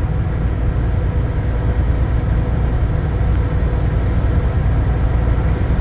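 Steady low rumble of engine and road noise inside a vehicle cruising on a motorway, with a faint steady whine above it.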